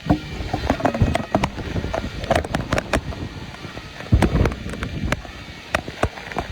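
Thunderstorm: many sharp, irregular clicks and knocks over a low rumbling noise, with a louder low rumble about four seconds in.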